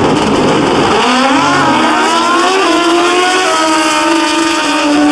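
Pro drag-racing motorcycles launching and running hard down the eighth-mile. The engine note climbs in steps, falling back a little at each gear shift.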